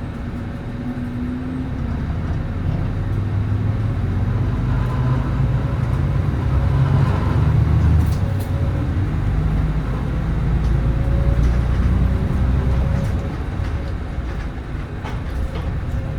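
Diesel engine of a 2010 Nissan Diesel PKG-RA274MAN city bus running under way. It grows louder toward the middle and eases off near the end.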